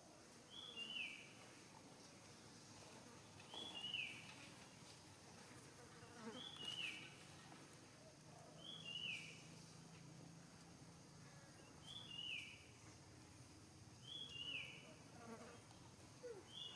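A faint, high two-note chirp from a small animal, each note sliding down in pitch, repeated seven times at roughly two-and-a-half to three-second intervals over quiet outdoor background.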